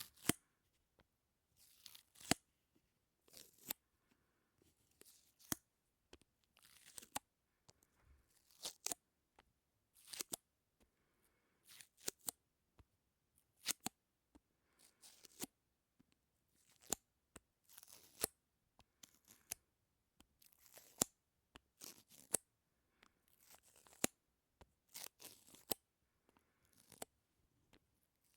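Sticky ASMR sounds close to the microphone: something tacky pulled apart again and again, each pull a short crackly peel with sharp clicks, about one every second.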